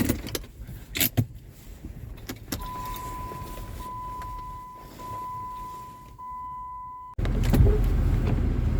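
Jeep Commander just stalled in deep snow: a few clicks, then a steady electronic warning chime for about four seconds, then the engine comes on suddenly about seven seconds in and runs with a loud low rumble.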